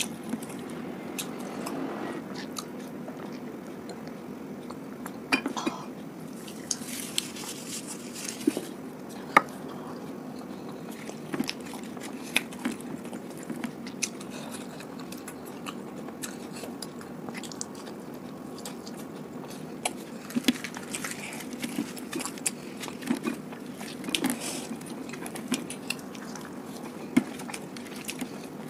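Close-miked eating of luchi (puffed fried bread) with curry: chewing with irregular wet mouth clicks and smacks, and the bread being torn by hand, over a steady low hum.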